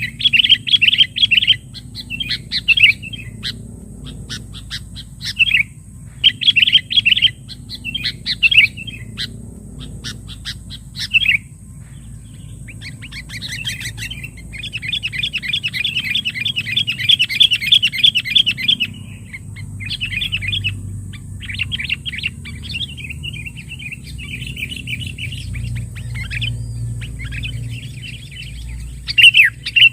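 Sooty-headed bulbul chattering calls in repeated short bursts of rapid notes, with one longer unbroken run of chatter around the middle: the agitated rival-calling used to lure bulbuls.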